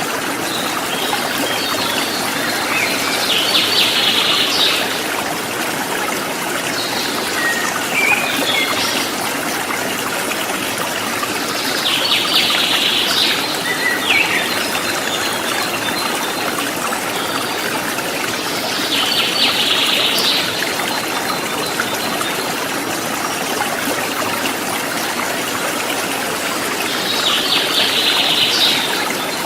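Water rushing steadily over a rocky stream bed. A bird sings a short phrase that recurs five times, every several seconds.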